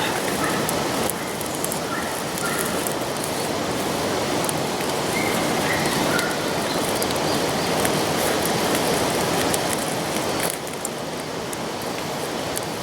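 Wood fire crackling in a small Firebox stove against a steady rushing noise, with a few faint bird chirps; the fire is burning well and glowing.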